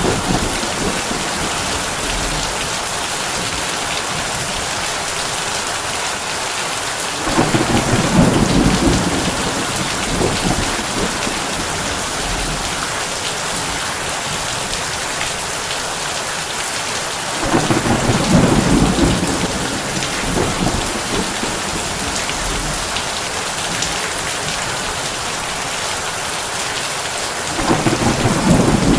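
Heavy rain drumming on a tin roof in a steady hiss, with three rolls of thunder about ten seconds apart, each lasting two or three seconds.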